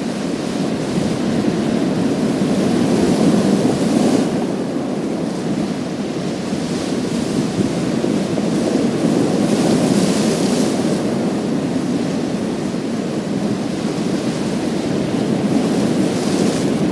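Sea waves breaking and washing over a pebble beach, a steady surf noise that swells several times as each wave comes in.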